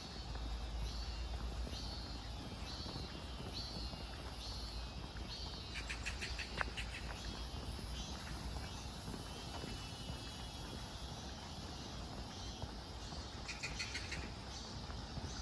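Insects chirping in a steady regular pulse, about two chirps a second, with two short bursts of rapid clicking trills, one near the middle and one near the end.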